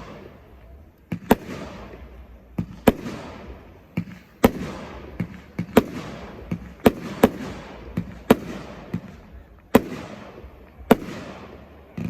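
Fireworks bursting: about a dozen sharp bangs at uneven intervals, each followed by a fading hiss.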